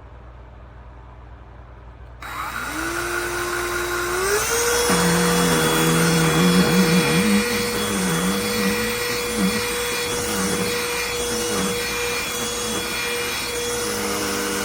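Cordless handheld vacuum switched on about two seconds in, its motor whine rising in pitch as it spins up and then running steadily; the sound cuts off suddenly at the end.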